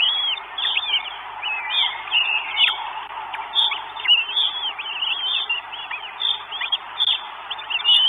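Birds calling without pause: many short, high, overlapping chirps and down-slurred whistles.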